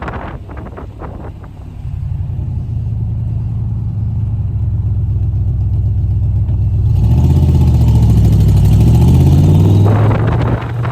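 A car engine running after a cold start. A steady low engine note sets in about two seconds in, then the engine is revved from about seven seconds, its pitch rising and then falling back near the end.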